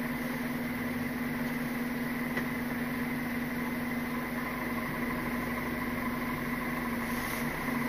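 Diesel engine of an articulated lorry's tractor unit running steadily at a constant, idle-like speed, heard inside the cab as an even hum.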